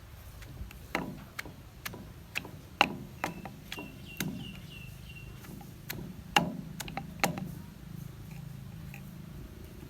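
Pestle knocking in a mortar while pounding papaya salad: sharp knocks at irregular intervals, roughly one a second, each with a short dull ring. A thin high wavering tone sounds for about two seconds in the middle.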